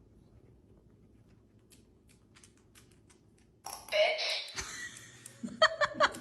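A pet working its talking buttons: a few light clicks, then a louder noisy sound about four seconds in, with quick sharp sounds near the end.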